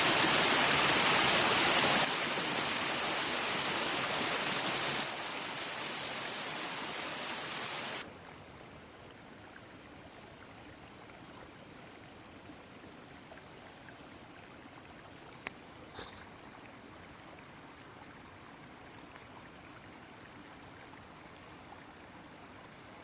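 Running water: a loud, even rush that drops in level in sharp steps about 2, 5 and 8 seconds in, then becomes a faint steady hiss with two small clicks in the second half.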